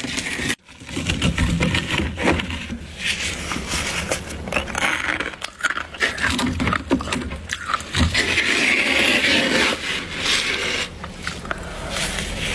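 Crunchy freezer frost, built up by a humidifier, being scraped by hand and crunched while eaten: loud, irregular scraping and crunching. It drops out sharply for a moment about half a second in.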